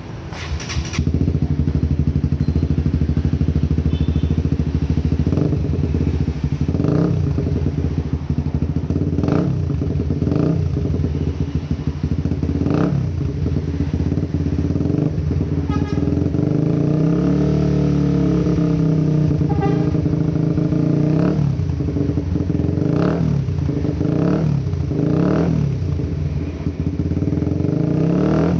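Honda CB150R single-cylinder engine breathing through a short carbon-Kevlar aftermarket muffler. It idles, then gets a string of quick throttle blips, with a longer rev that rises and falls around the middle.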